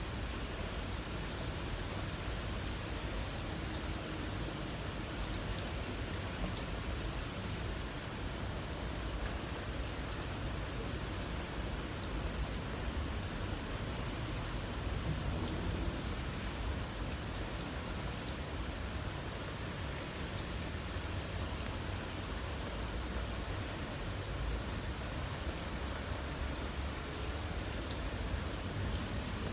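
Light rain falling as a soft, even hiss, with an insect trilling in one steady high-pitched tone.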